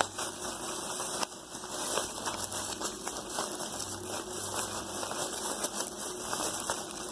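A small plastic trash bag crinkling and rustling as it is handled and filled with cotton, with a run of irregular small crackles.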